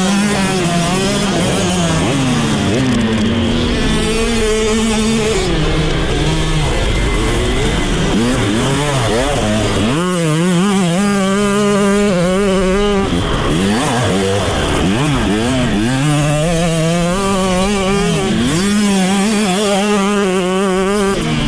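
Motocross bike engines riding the track, the revs rising and falling again and again through the gears. At times more than one bike is heard at once.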